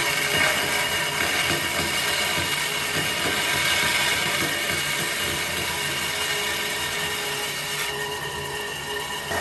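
An electric power tool running steadily on wood, a held high motor whine over an even hiss, its tone shifting slightly near the end.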